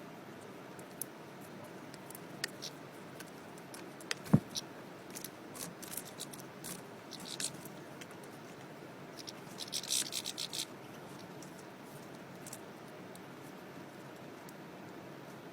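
European goldfinches pecking at a sunflower head and cracking its seeds: scattered small clicks and scratches, one sharper knock about four seconds in, and a quick cluster of scratchy clicks around ten seconds in.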